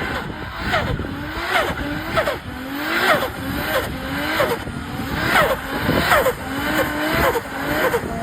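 Japanese performance car engine revved hard again and again, its pitch climbing and falling back about once a second.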